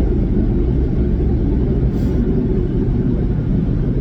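Steady low rumble of a car's engine and road noise heard from inside the cabin as the car drives slowly.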